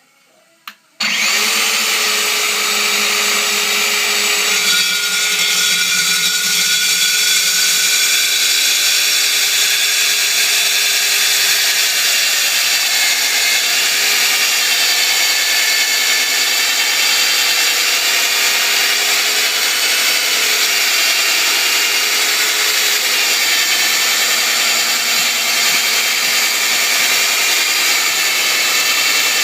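Industrial electric metal drill starting up about a second in after a single click, then running steadily with a loud, high-pitched whine.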